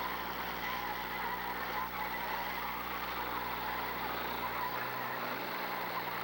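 Demolition derby cars running in the arena, a steady, even din of engines with no single crash standing out.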